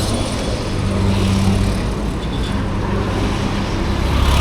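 Honda H'Ness CB350's single-cylinder engine and exhaust running steadily at riding speed, with wind rush on the helmet-mounted microphone.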